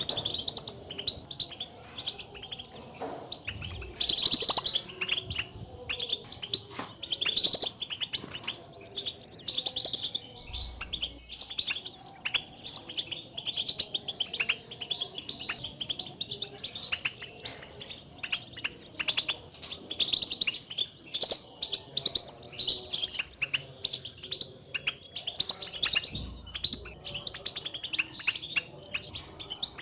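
European goldfinches giving their contact calls: rapid, overlapping twittering chirps, repeated continuously with no pause. This is the call chatter goldfinches use to call to each other, not their full song, and it is used to stir a caged goldfinch into singing.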